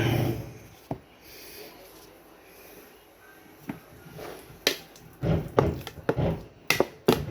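Clicks and knocks of hands working at sandwich-making, handling utensils and food packaging: a few single clicks at first, then a quick run of sharp knocks from about five seconds in.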